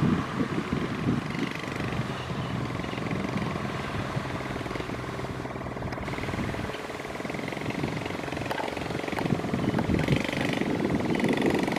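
Kubota M6040SU tractor's diesel engine running with a rattling throb, getting louder about ten seconds in.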